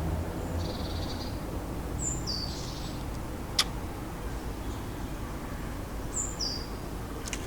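Small garden songbirds calling at a feeder: three high, thin calls, two of them a short high note stepping down to a lower one, over a steady low background rumble. A single sharp click about three and a half seconds in.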